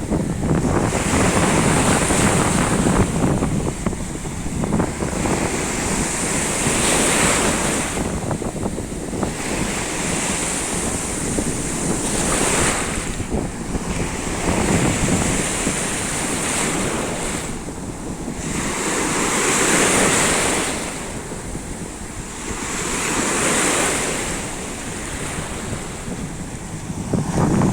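Sea waves washing in on the shore, swelling and falling away every few seconds, with wind buffeting the microphone in a steady low rumble.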